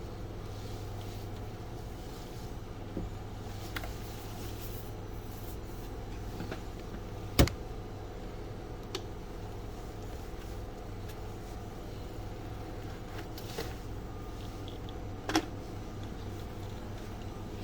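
Car engine idling steadily on E85 ethanol fuel just after a cold start, with a few sharp clicks over it, the loudest about seven seconds in.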